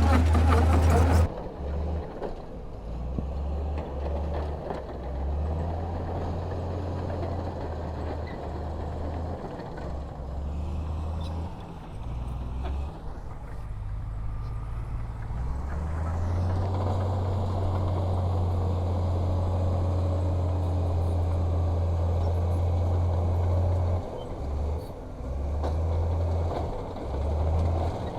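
Heavy diesel earthmoving machinery running, with a deep engine drone that drops away and comes back several times as the load changes.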